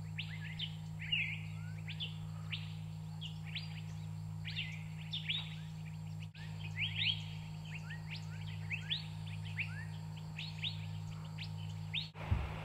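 Several forest birds calling in quick, overlapping high chirps and short sliding notes, many of them falling steeply in pitch, over a steady low hum.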